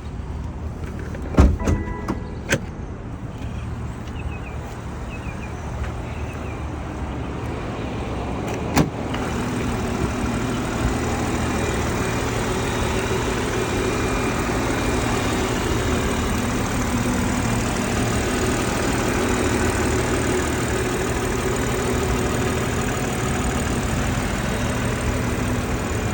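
A few clicks and a single sharp knock about nine seconds in, typical of the hood being released and lifted. After that comes the steady idle of a 2020 BMW X5 xDrive40i's turbocharged 3.0-litre inline-six, louder from that point on.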